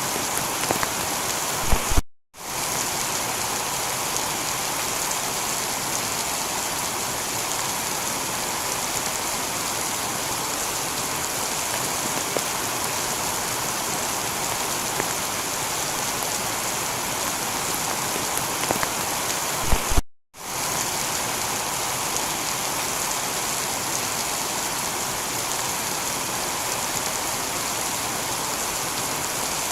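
Heavy rain falling steadily on a tiled roof. It cuts out to silence for an instant twice, about two seconds in and again near twenty seconds, each time just after a sharp click, where the recording loops.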